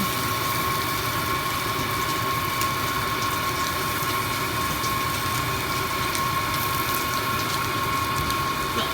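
Heavy monsoon rain falling steadily, with a steady high-pitched hum running under it.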